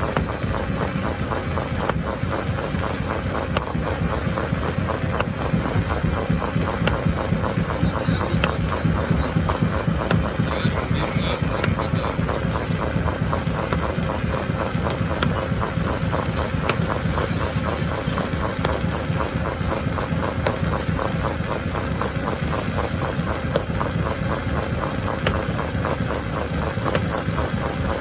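Stone crusher machine running continuously: a steady dense mechanical din with fast rattling, a constant hum, and scattered sharp clicks.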